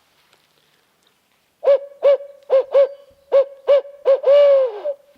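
Owl hooting: seven short hoots in quick uneven succession, then one longer hoot that drops in pitch at the end.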